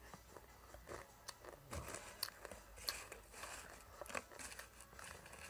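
Faint, scattered crisp crackles and clicks of someone chewing crushed dry instant-noodle snack.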